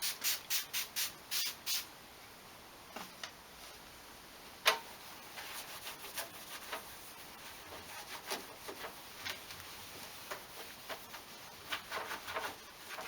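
Hand cleaning of a plastic number plate light unit: quick rhythmic scrubbing strokes for the first couple of seconds, then scattered squeaks and scrapes, with one sharp click about five seconds in.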